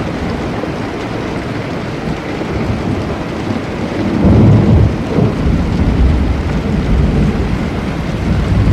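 Thunderstorm: steady rain with a roll of thunder that swells about four seconds in and rumbles on to the end.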